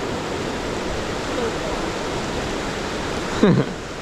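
Steady rush of a waterfall. About three and a half seconds in, a person's voice makes a short sound that falls in pitch.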